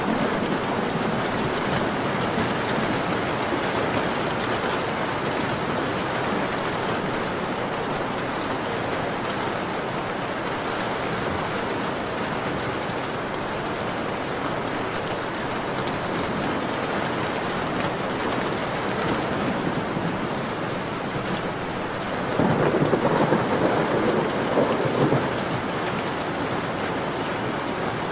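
Steady heavy rain falling, with a low rumble of thunder swelling up about three-quarters of the way through.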